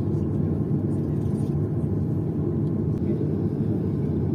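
Steady low rumble of cabin noise inside a Boeing 737-800: its engines running and the air-conditioning blowing while the jet waits on the ground before takeoff.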